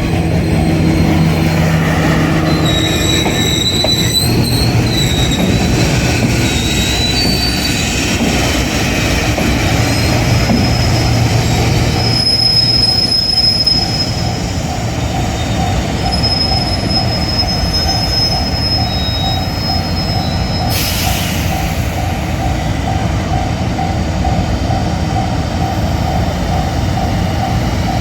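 A slow-moving train crossing the points from a siding, its wheels squealing in high tones that come and go. A level-crossing bell rings in a fast, even repeat underneath. There is a short hiss about three-quarters of the way through.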